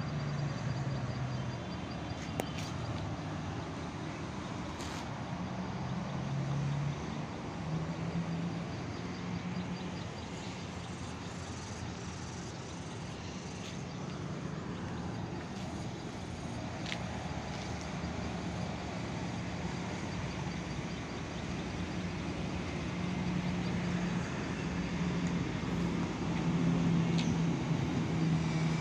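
Propeller and motor of a foam Extra 300 radio-controlled model plane in flight, a buzz that keeps shifting up and down in pitch with throttle and distance, over a steady outdoor hiss.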